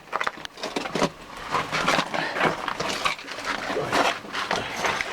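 Someone moving over ice, making irregular scrapes and crunches several times a second.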